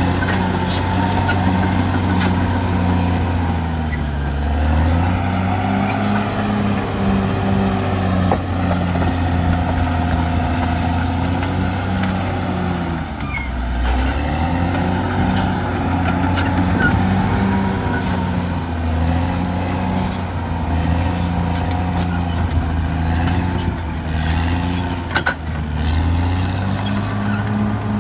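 Caterpillar D6R XL bulldozer's diesel engine running hard as it works, its pitch dropping and climbing back several times, with occasional sharp metallic clanks.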